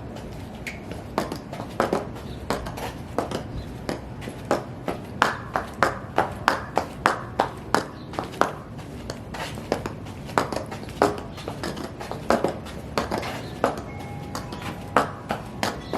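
High heels stomping and stepping: a run of sharp, uneven heel strikes, roughly two a second, over a steady low background noise.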